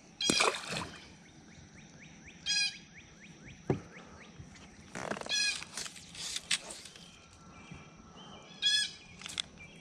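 A bird in the shoreline trees gives a short call three times, a few seconds apart. Right at the start a released bluegill splashes into the lake.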